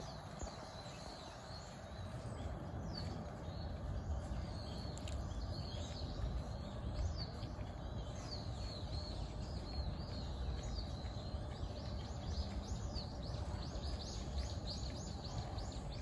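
Birds chirping and twittering, many short quick high chirps that thicken near the end, over a steady low rumble of outdoor background noise.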